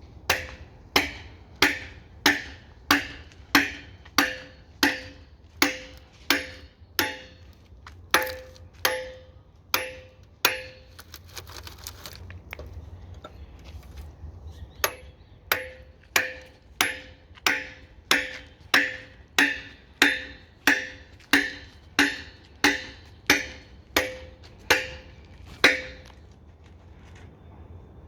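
Hammer blows struck at a steady pace, about three every two seconds, each with a short ringing tone; they break off for a few seconds in the middle, where there is a brief hiss, then resume.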